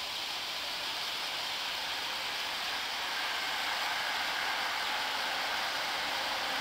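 Hankyu 9300 series electric train approaching at a distance: a steady hiss of rolling noise that grows gradually louder from about three seconds in.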